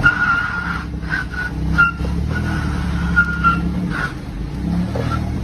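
Vehicle engine running steadily, with a high, thin tone that comes and goes over it.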